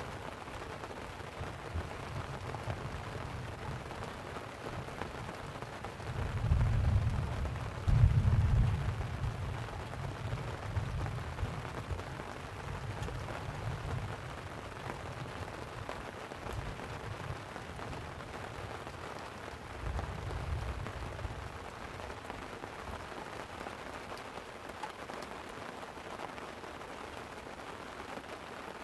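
Light rain falling steadily on a tent, with thunder rumbling low: a strong roll about six seconds in that peaks around eight seconds, and a weaker rumble about twenty seconds in.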